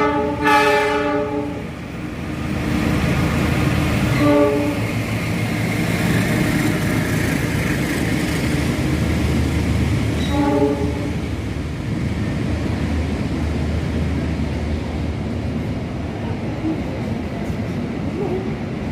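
Train horn sounding three times, a long blast and then two short ones several seconds apart, over the steady running rumble of a train passing through the station.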